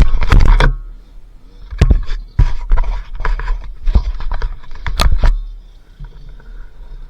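Two-stroke dirt bike engine (a Kawasaki KX80 unit in a Honda XLR80R) running while riding off-road, heard through heavy wind buffeting on a helmet-mounted microphone, with several sharp knocks and scrapes from the rough ground.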